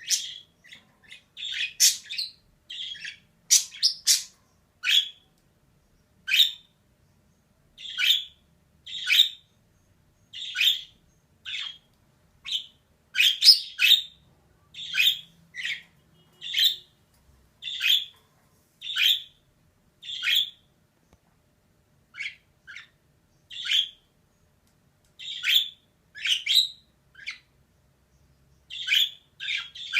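Female budgerigar giving short chirping calls, one after another about once or twice a second, with a few brief pauses.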